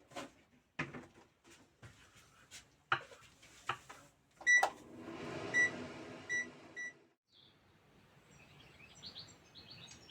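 Clicks and knocks, then an electric fruit dryer beeping four short times as it is set, its motor humming steadily for about two and a half seconds before stopping. Small birds chirp near the end.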